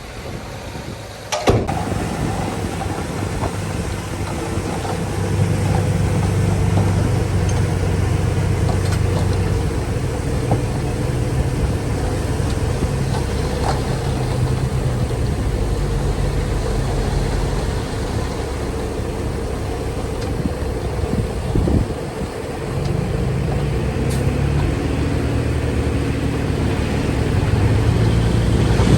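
Heavy equipment diesel engine running steadily, coming in abruptly about a second and a half in, easing somewhat near the middle and picking up again in the last few seconds.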